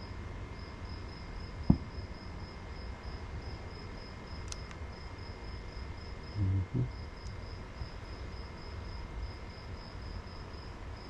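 Cricket chirping in an even pulse, about three chirps a second, over a low steady rumble. A single sharp knock about two seconds in and two dull low thumps around the middle.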